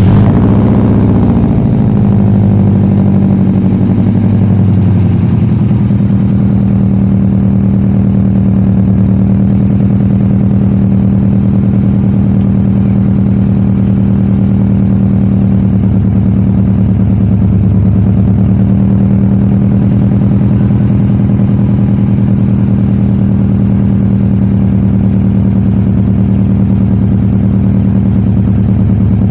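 Subaru Impreza WRX's flat-four boxer engine just after a cold start: the revs flare high, fall over the first five seconds or so, then settle into a steady, lumpy idle with the uneven boxer rumble.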